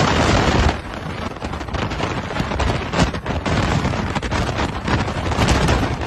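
Hurricane wind rushing and buffeting the microphone in irregular gusts, loudest in the first second.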